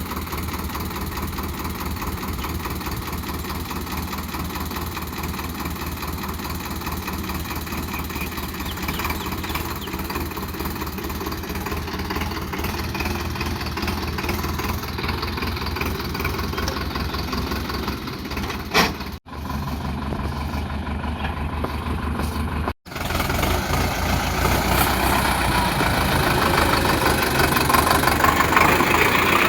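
Sonalika DI 750 tractor's diesel engine running steadily, growing louder over the last few seconds. The sound drops out abruptly twice, briefly, in the second half.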